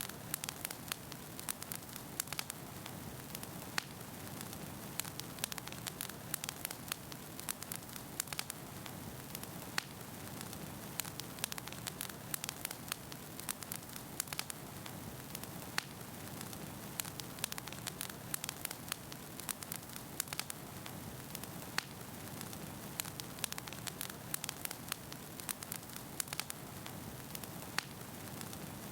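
Wood fire burning in a fireplace, with a steady low rushing of flames and frequent irregular sharp crackles and pops from the burning logs.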